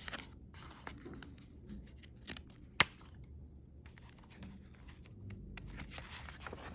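Light rustling and handling of paper book pages, with one sharp click a little under three seconds in.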